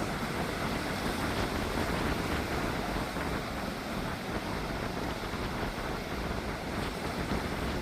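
Ocean surf stirred up by Hurricane Helene, heard as a steady rushing noise, with wind buffeting the microphone in uneven gusts.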